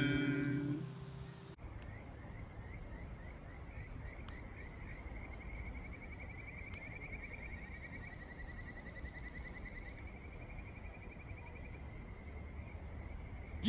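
Outdoor ambience after the music fades: an animal chirping in a long run of quick, rising chirps, several a second, over a steady high whine. A short, louder call with falling pitch comes right at the end.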